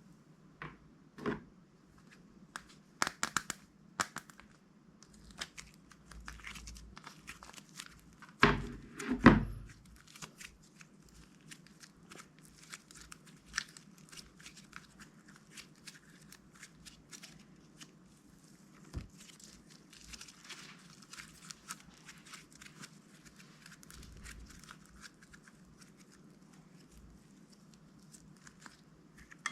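Crunchy slime being worked by hand, with many small clicks and crackles and crinkling plastic. Two louder thumps come about eight and nine seconds in.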